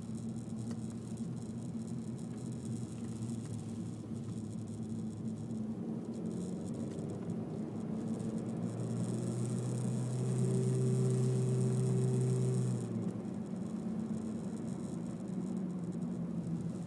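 Honda Civic 1.8 i-VTEC four-cylinder engine and road noise heard inside the car's cabin while driving. About halfway through, a louder, steady engine drone comes in for about four seconds, then drops back suddenly.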